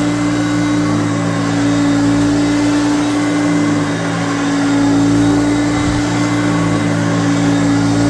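1989 Hoover Concept 1 power-drive upright vacuum cleaner running steadily on normal power, its motor giving a constant hum.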